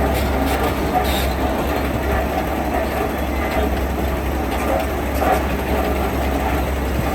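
Heavy diesel construction machinery running steadily, a deep, continuous rumble.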